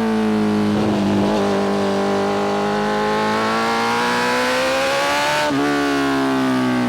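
BMW S1000RR inline-four engine with a full titanium Spark exhaust, riding under power. A quick gear change about a second in, then the revs climb slowly and fall away steadily from about five and a half seconds in.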